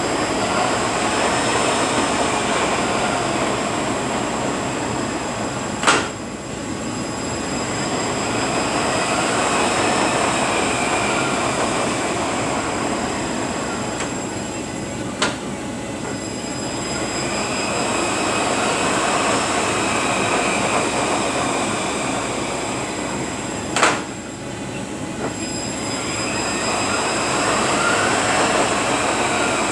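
Rebuilt Eaton Fuller RTLO-18913A 13-speed truck transmission running on a dyno test stand: a steady whine with high ringing tones, the noise swelling and easing in slow cycles, broken by three sharp clacks about nine seconds apart.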